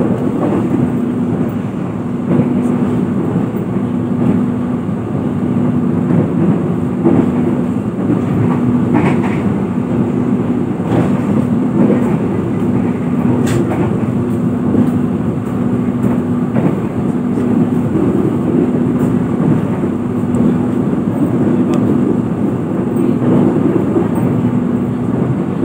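Sawunggalih passenger train running at speed, heard inside the coach: a steady rumble of the wheels on the rails. A low hum in it pulses on and off in an even rhythm, with a few light clicks.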